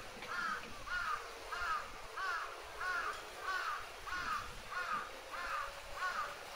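A bird calling over and over in an even rhythm, about three calls every two seconds, each a short arched note. A faint steady splash of water runs underneath.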